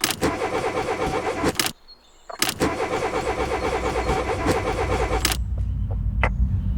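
Car engine being cranked by its starter motor in two rhythmic attempts, the second longer, without catching: the car has died and won't start. A low steady rumble follows near the end.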